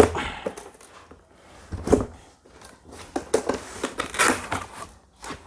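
A cardboard box being opened by hand: the seal tearing and the packaging rustling and crinkling, with a sharp knock about two seconds in and a burst of louder rustling near four seconds.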